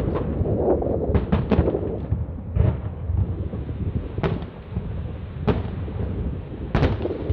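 Aerial fireworks bursting: a quick run of three bangs about a second in, then single bangs every second or so, over a steady low rumble.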